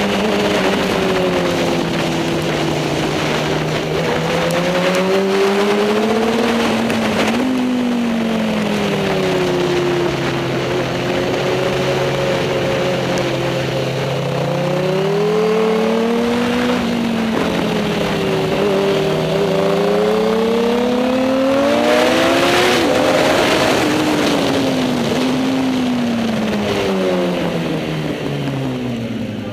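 Superbike racing motorcycle engine running hard, its pitch climbing steadily under acceleration and then dropping off sharply, about four times over as it slows and picks up again.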